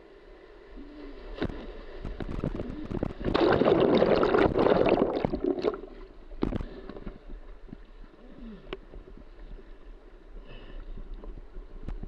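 Kayak on a whitewater river: splashing and rushing water, with a loud surge of splashing about three seconds in that lasts roughly two seconds, and a few scattered knocks.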